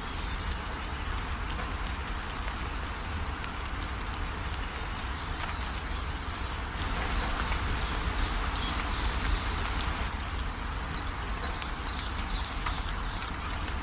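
Steady rain with scattered drops ticking, and birds chirping over and over in a high register. There is a low rumble underneath, and the rain and chirping grow a little louder about halfway through.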